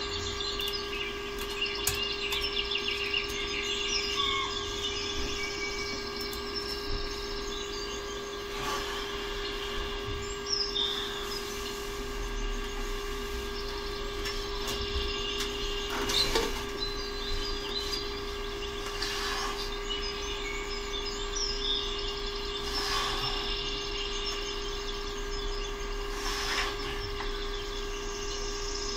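Small birds chirping again and again over a steady hum, with a few soft knocks, the clearest about halfway through.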